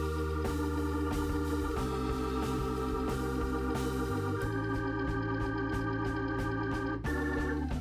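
Organ music: held chords that change every two to three seconds, with a fast fluttering pattern over them.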